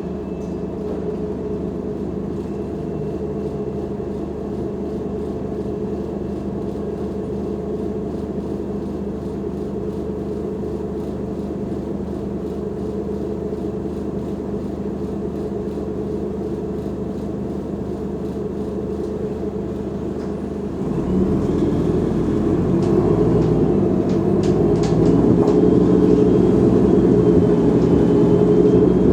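Diesel engine of a Mercedes-Benz O345 Conecto G articulated bus running steadily at a low, even note. About two-thirds of the way through it grows louder and its pitch shifts as it revs up under load, as when the bus pulls away.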